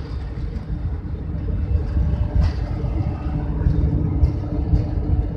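Steady low rumble inside an airplane cabin, with a constant hum over it and a few faint clicks.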